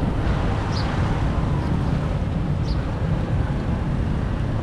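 Floodwater rushing steadily into a street drain, a continuous low rushing noise, with a few short high chirps over it.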